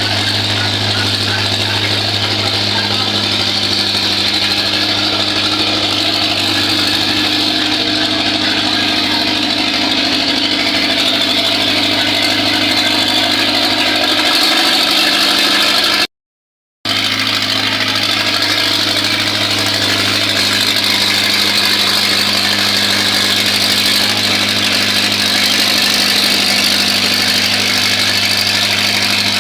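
An engine running steadily at a constant speed, with a brief cut to silence about two-thirds of the way through.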